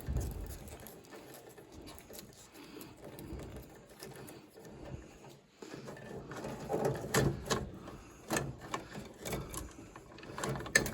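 Light clicks, taps and knocks of hands and tools working on furnace parts and wiring, sparse at first and busier in the second half.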